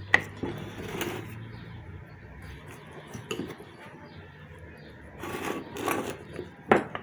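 Metal parts of a centrifugal water pump being handled and fitted together as its front cover goes on: a sharp clank just after the start, scraping and light knocks, and another sharp knock near the end.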